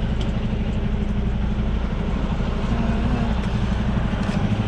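Semi truck's diesel engine running steadily, heard from inside the cab.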